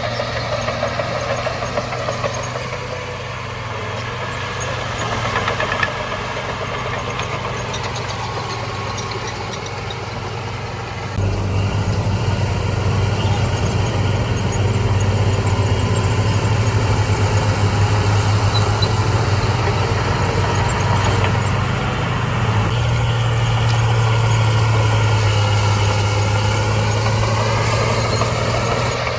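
Heavy diesel engine of earthmoving machinery running steadily with a strong low hum, turning abruptly louder about a third of the way in.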